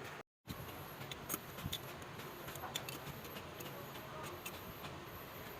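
Scattered light clicks and ticks over steady background noise, with a faint high whine that comes and goes. The sound drops out completely for a moment just after the start.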